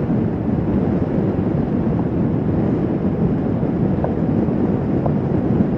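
Motorcycle riding along at steady speed: engine and road noise under a constant rush of wind over the microphone.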